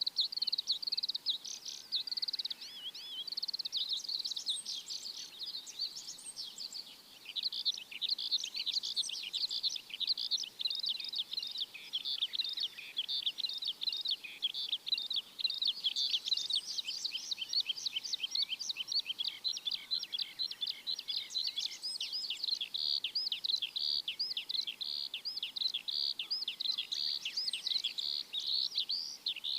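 Many small birds chirping at once in a dense, near-continuous chorus of rapid high chirps, with a brief thinning about seven seconds in.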